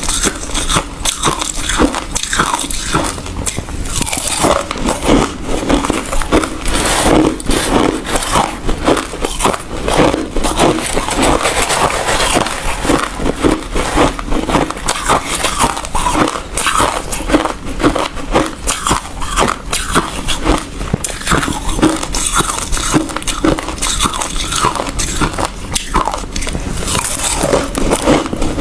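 Hard ice being bitten and chewed close to the microphone: continuous loud, crisp crunching and crackling.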